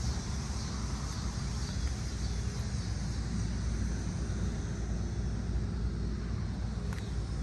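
Mercedes-AMG C63's V8 running at a steady idle, a low even rumble, with a steady high hiss over it.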